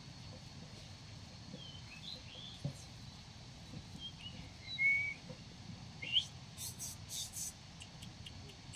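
Small birds chirping and whistling: short, high, clear calls scattered through, the loudest a brief held whistle about halfway, followed by a quick run of sharp chattering notes.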